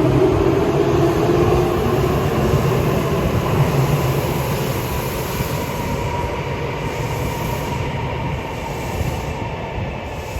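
Three-car Tokyu Ikegami Line electric train pulling out of an underground station, its motors whining over the rumble of the wheels. The sound slowly fades as it leaves.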